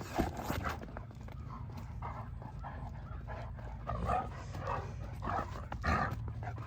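Great Danes at play, giving short dog sounds at intervals, more of them in the second half, over a steady low hum.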